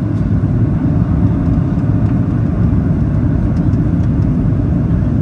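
Steady low rumble of cabin noise inside a Boeing 737-800 on final approach: airflow along the fuselage and its CFM56-7B turbofan engines.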